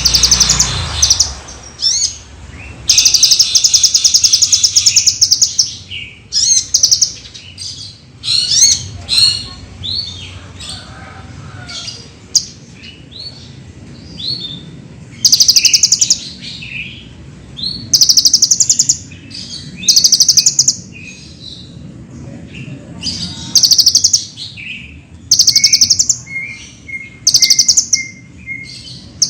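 Kolibri ninja, a small sunbird, singing loudly in repeated bursts of very fast, high-pitched trills, each a second or two long, alternating with varied sharp chirps and twitters. Near the end comes a short run of evenly spaced, lower single notes.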